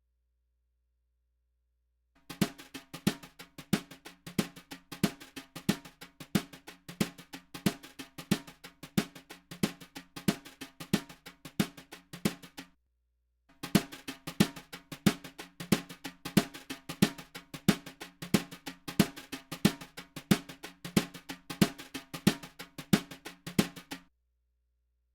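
Drum kit recording playing a steady kick-and-snare beat, processed through an optical compressor plugin. The same pattern plays twice, with a short break of about a second between the passes.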